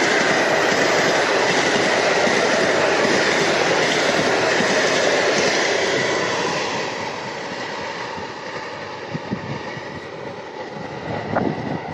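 An electric commuter train passing close by: a loud, steady rolling rumble of wheels on rails with a thin high whine. After about six seconds it drops away and fades as the train recedes.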